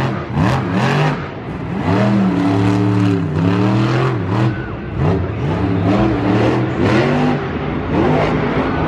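Monster truck engine revving hard over and over, its pitch climbing and falling several times, with short sharp bursts between the revs.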